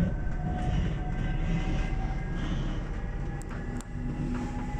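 Electric local passenger train running along the line, heard from inside the carriage: a steady low rumble of wheels on track with faint steady whines over it, and a couple of sharp clicks about three and a half seconds in.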